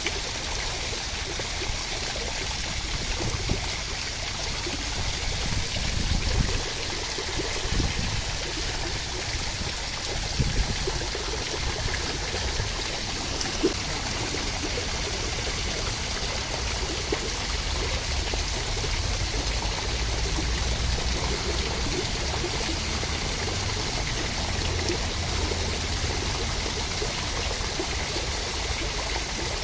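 Steady rain, an even hiss of water with a few sharper louder drops or splashes in the first half.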